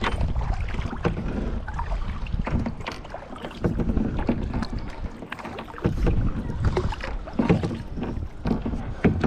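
Kayak paddle strokes splashing and dripping in lake water, with repeated surges every second or two and small knocks against the hull, over wind rumble on the microphone.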